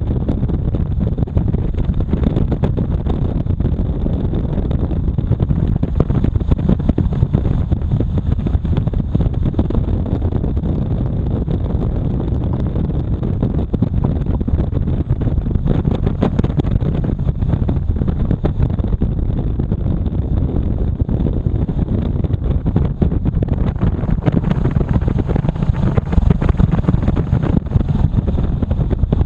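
Motorcycle running steadily on the road, with wind noise on the microphone.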